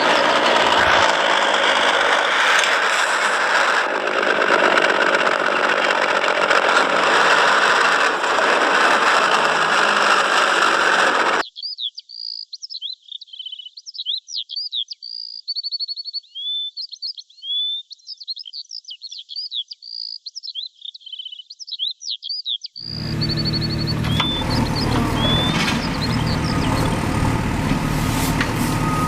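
A loud, steady rushing noise, then an abrupt cut to about eleven seconds of quick bird chirps and trills, then the noise cuts back in with a low hum under it.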